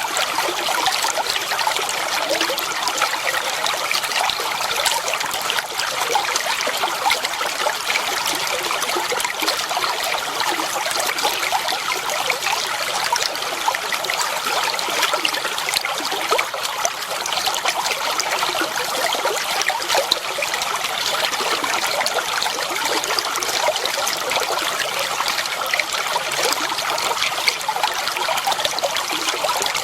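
Clear water flowing and trickling steadily, a continuous splashing babble with many small bright splashes.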